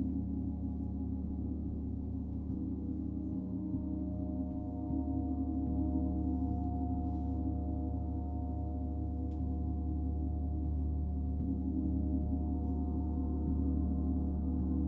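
Gong sounding in a sustained, shimmering wash of many overlapping tones, kept going without distinct strikes and swelling slightly about five seconds in.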